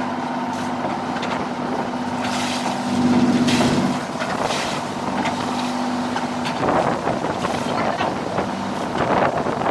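Fishing boat's engine running steadily, a constant hum under the rush of water and wind, swelling briefly a few seconds in.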